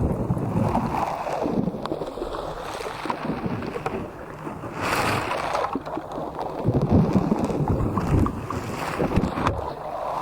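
Slime being squeezed and worked by hand, a steady wet squishing with many small clicks and pops, and a brief louder squelch about halfway through.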